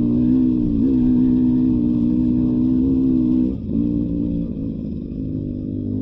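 Beta 300 RR two-stroke single-cylinder dirt bike engine running at a steady throttle on a trail ride. About three and a half seconds in, the throttle eases off briefly and the engine then carries on slightly quieter.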